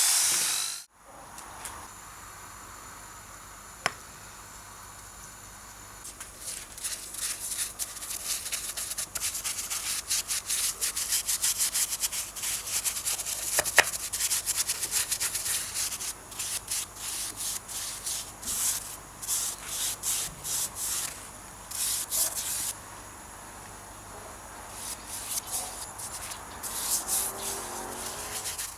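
A power tool cuts off just under a second in. After a few seconds, quick back-and-forth hand-sanding strokes start, abrasive rubbing on a part of the machine being restored, with a couple of sharp clicks and a short pause before the strokes pick up again near the end.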